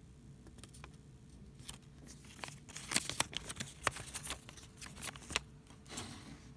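Handling noise: a run of sharp clicks and crinkling rustles, thickest in the middle and thinning out near the end.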